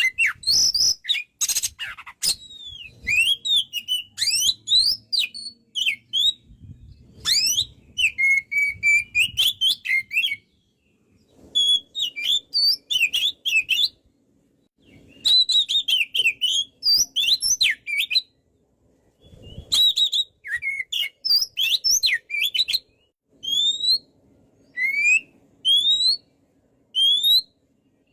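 Oriental magpie-robin (kacer) in full song: fast phrases of clear rising and falling whistles and chirps, separated by short pauses of about a second.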